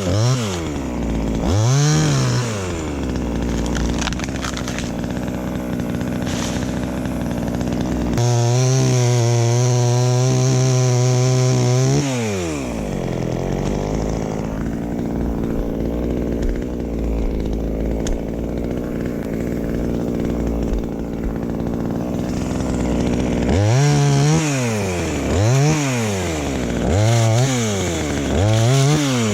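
Two-stroke chainsaw running: revved up and down, then held at high revs for a few seconds before its note drops and runs lower and rougher for about ten seconds. Near the end it is blipped up and down several times in quick succession.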